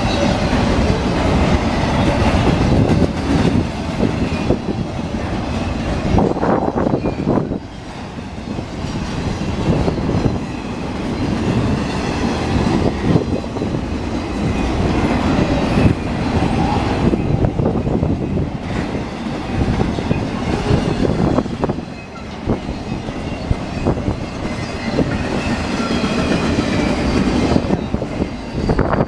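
Train cars rolling past close by: a steady rumble of wheels on rail with irregular clicks as the wheels cross rail joints, and a faint high squeal from the wheels at times.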